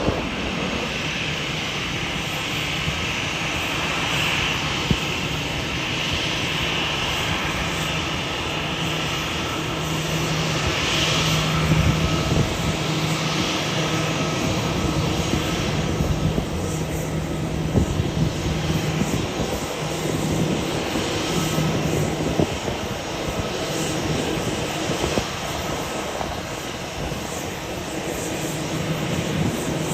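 Jet airliner engines running steadily, a low hum under a high whine, with no sharp rise or fall in level. The high whine eases off about halfway through.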